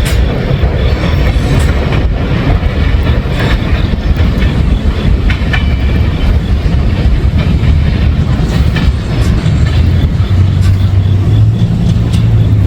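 Freight train cars rolling past at a grade crossing, with a steady rumble and wheels clicking over the rail joints.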